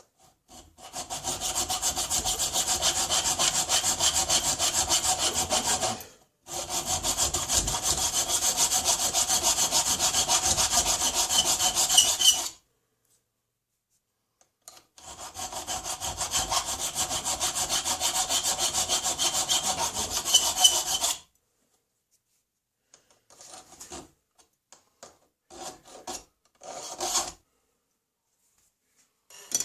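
A tool rasping on a metal part in three long runs of quick, even strokes with short pauses between, followed by a few light clicks and taps near the end.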